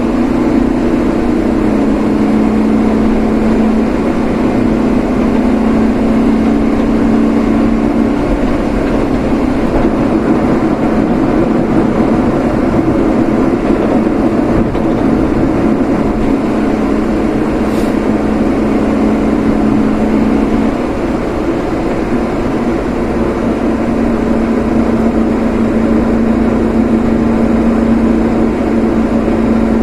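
A vehicle driving, heard from on board: a steady engine hum over road noise. The hum shifts in pitch a couple of times as the speed changes. There is one brief tick about 18 seconds in.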